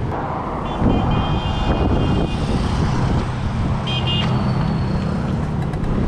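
Street traffic: vehicle engines running close by, with a steady low engine hum in the second half. A high-pitched tone sounds for about a second and a half near the start and again briefly about four seconds in.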